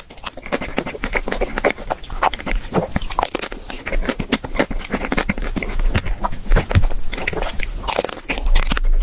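Close-up biting and chewing of a pink chocolate-coated ice cream bar: the hard shell crackles and crunches in a dense run of small snaps, with wetter chewing between bites.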